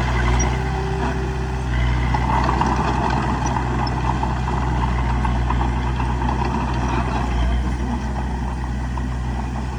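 Bulldozer's diesel engine running steadily, with a rough, rattling clatter over it that is strongest in the middle.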